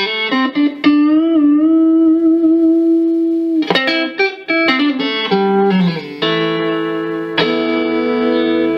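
Fender Stratocaster electric guitar played on its neck pickup with volume and tone controls full up: a few quick picked notes, a long held note with vibrato, then more notes and ringing chords, restruck once.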